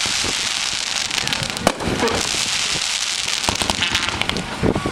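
Consumer firework cake (multi-shot aerial repeater) firing: a continuous dense crackling hiss of bursting effects, with a sharp bang a bit under two seconds in and a quick cluster of bangs near the end.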